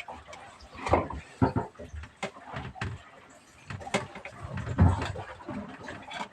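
Irregular knocks, bumps and rattles, with a few heavier low thumps around a second in and again near five seconds.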